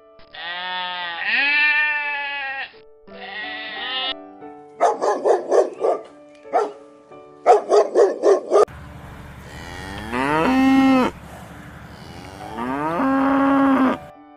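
A series of livestock calls over steady background music: several bleats, two of them quavering, then two longer calls that rise in pitch and then hold steady.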